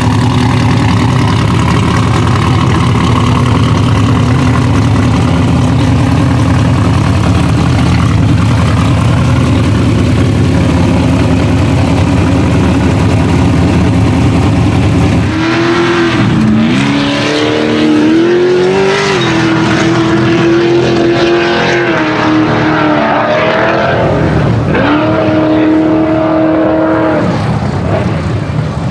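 Ultra4 race car's engine running steadily at low revs, then from about halfway revving up and down in two runs with a brief break between them.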